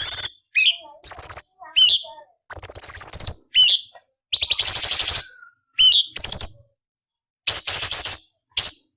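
Orange-bellied leafbird (cucak cungkok) singing in short, harsh, scratchy bursts mixed with quick rising notes, broken by brief silences. The longest harsh phrases fall about a third of the way and halfway through. After a pause of about half a second near the end, another harsh burst follows.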